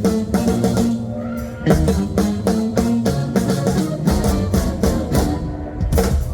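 Live blues band playing an instrumental passage: guitar and bass over drum kit with a steady beat.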